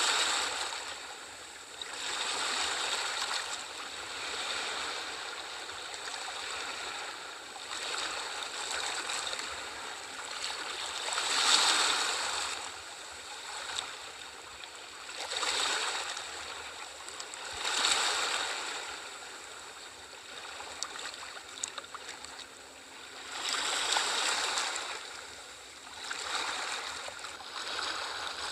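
Sea waves washing onto a shore, a hiss of water that swells and fades again every few seconds at uneven intervals, with the biggest surges about 11 and 24 seconds in.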